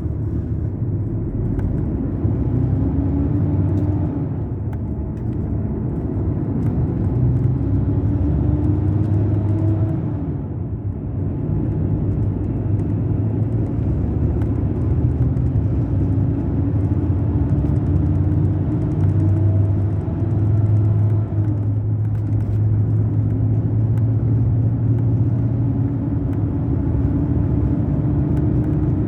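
Mercedes-Benz O500 RSD BlueTec5 coach's diesel engine pulling under load, its pitch climbing steadily and then dropping at gear changes about four, ten and twenty-one seconds in.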